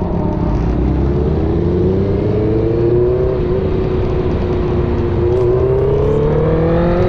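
Honda CBR650R's inline-four engine, breathing through an aftermarket replica Akrapovič full exhaust, pulling under acceleration. Its pitch climbs, holds and dips slightly midway, then rises again near the end.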